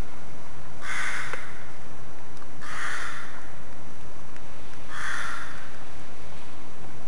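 A bird giving three harsh caws, each about half a second long, roughly two seconds apart.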